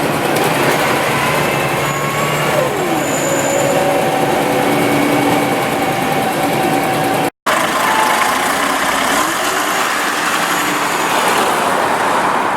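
Scania OmniLink CL94UB city bus running, with drivetrain and road noise and a whine that falls in pitch about three seconds in. The sound cuts out completely for a moment a little past halfway, then resumes.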